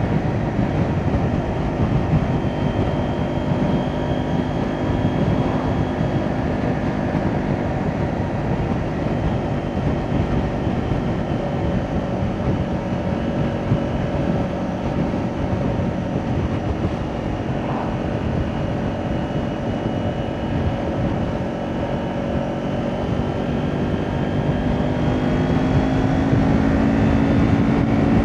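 Kawasaki Ninja 400 parallel-twin engine with an Akrapovic exhaust, running at fairly steady revs under way over wind and road noise. The engine note climbs a little near the end as the bike picks up revs.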